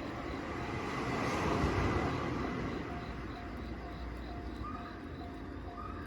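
Hokuriku Railroad 7100 series electric train (ex-Tokyu 7000 series) running, its noise swelling and peaking about two seconds in, then easing, while a level crossing bell rings repeatedly.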